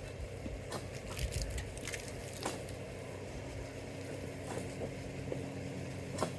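An engine running steadily with a low, even hum, under scattered short clicks and crunches of handling.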